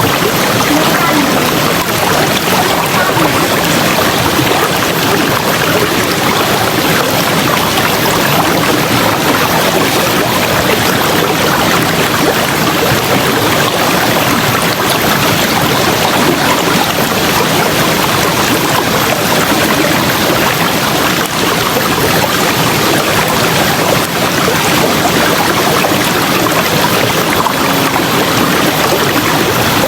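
River water flowing, a steady rushing sound that holds at an even level throughout.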